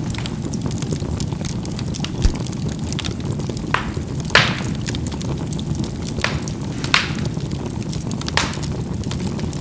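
Charcoal burning in a fireplace: a steady low rush of fire with sharp pops as the charcoal bursts, about five of them, the loudest about four seconds in. A dull low knock comes about two seconds in.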